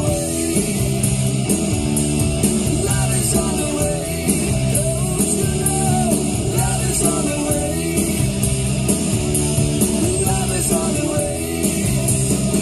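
1980s hair-metal rock song playing over a car stereo, with a male singer, electric guitars and drums.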